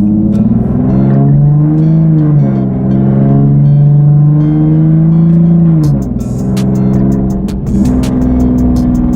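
Straight-piped, catless Nissan 370Z's 3.7-litre V6 accelerating hard, its exhaust note climbing, dropping at a gear change about two and a half seconds in, then climbing again. About six seconds in the throttle comes off and the exhaust crackles and pops before settling to a steady drone near the end.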